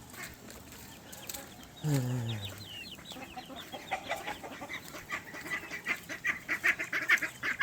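A flock of chickens clucking, with the short calls coming thicker and faster in the second half; a single low, falling call about two seconds in.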